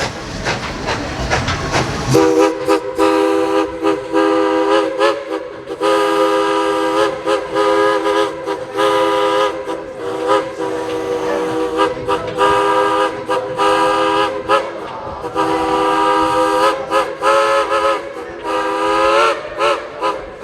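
Steam locomotive's Crosby three-chime whistle blowing a chord in a series of long and short blasts, starting about two seconds in after a stretch of train noise.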